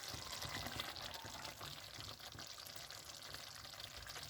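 Fish curry gravy simmering in the pot with a faint, steady bubbling crackle as pomfret pieces are slipped into it.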